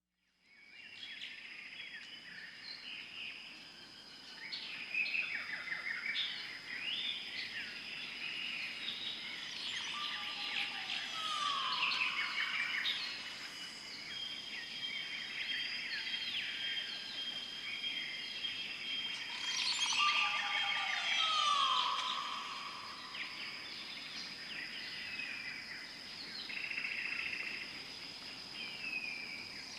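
Several birds singing and calling at once, many short chirps and trills, over a steady high tone. A longer call that drops in pitch comes twice, about eleven and twenty-one seconds in.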